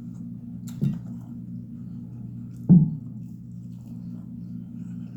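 Eating noises close to the microphone: two short clicks or smacks about two seconds apart, the second louder, over a steady low hum.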